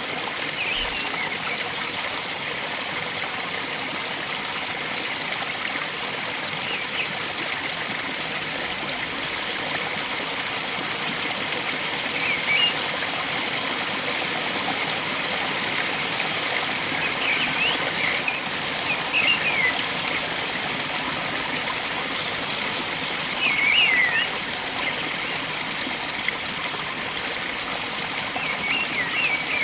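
Steady rush of flowing stream water, with short bird chirps breaking in every few seconds, the loudest about three-quarters of the way through.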